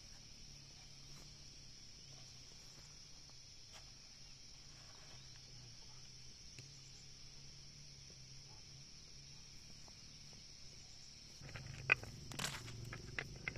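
Steady, high-pitched insect chirring. About twelve seconds in, a run of sharp clicks and knocks starts over it.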